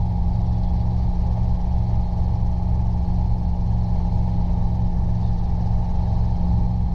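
Robinson R22 helicopter's piston engine and rotors running steadily in flight, heard from inside the cabin while it climbs; a constant, heavy low drone with no change in pitch.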